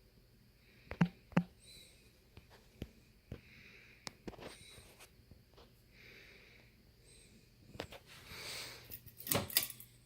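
Ceiling fan running with a faint steady hum. Irregular sharp clicks and short rushes of air noise sound over the hum: two loud clicks come about a second in, and a burst of clicks comes near the end.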